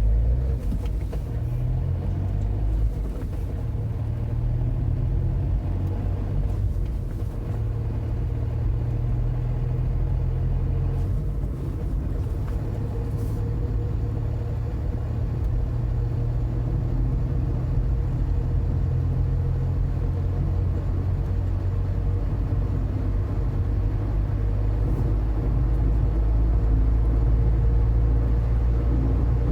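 Volkswagen Polo's 1.2-litre three-cylinder MPI petrol engine pulling the car up from a standstill under gentle throttle, changed up through the gears without hard revving, over a steady low rumble of engine and road that grows slowly louder as speed builds.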